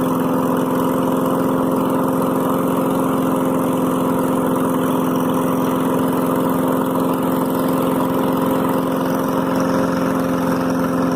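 Petrol engine idling steadily after a cold start, with an even, unchanging note. The owner says it is acting weird, as if it is not getting enough fuel, while it smokes from the front.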